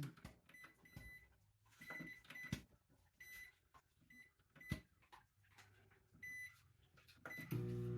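Microwave oven being restarted: a series of short high keypad beeps among a few clicks and knocks, then the oven starts running with a steady hum near the end.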